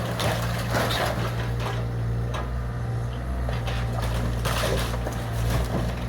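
Bobcat excavator's diesel engine running steadily during demolition, with crunching and cracking of broken wood near the start and again near the end.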